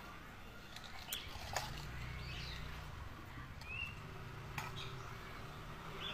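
Faint outdoor ambience with a few scattered short bird chirps, some light clicks, and a low steady hum that comes in about a second and a half in.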